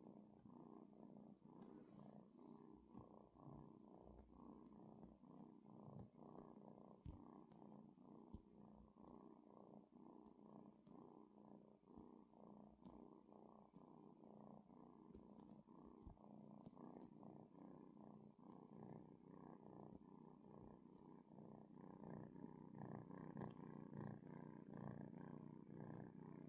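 Kitten purring steadily and faintly, a little louder near the end.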